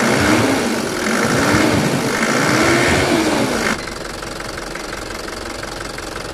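Isuzu pickup's diesel engine running with its newly fitted fan clutch and fan turning, its pitch rising and falling a few times as if revved. About two-thirds of the way in the sound drops suddenly to a steady, quieter idle.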